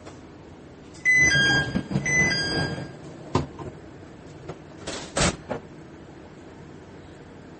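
Train door chime sounding two short two-note tones, about a second apart, while the railcar's sliding doors run. A few sharp knocks follow a couple of seconds later. Under it all is a low, steady hum from the idling train.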